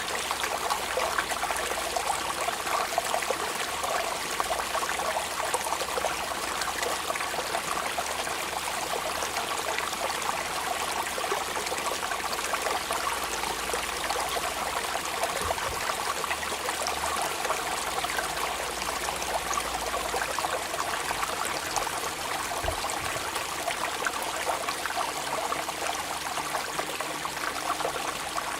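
Steady rain falling, a dense even hiss of countless small drop impacts that keeps a constant level throughout.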